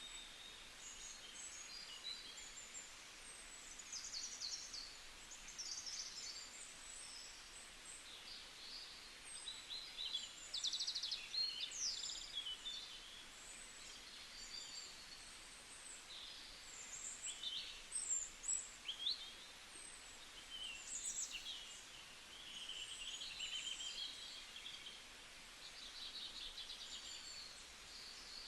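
Many wild birds chirping and twittering together: short, high calls and quick trills overlapping one another, over a steady high hiss.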